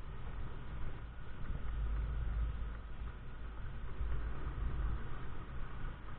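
Wind rush and road rumble with a SYM Joymax Z+ scooter running underneath, heard from a helmet-mounted camera while riding. The sound is a steady, gusting low rumble.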